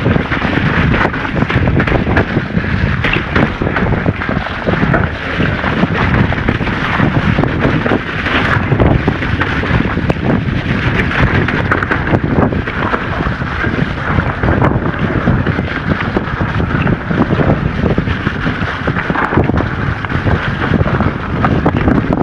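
Wind rushing over the microphone of an e-mountain bike ridden along a rough trail, with constant small knocks and rattles from the bike and tyres.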